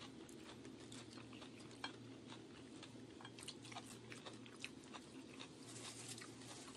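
Faint close-up chewing and crunching of food, many small irregular crunches and clicks over a steady low background hum.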